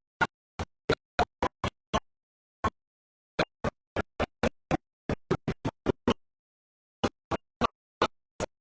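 Audio breaking up into dozens of very short clicks of sound, a few a second and unevenly spaced, with dead silence between them: the sound of a stream dropping out.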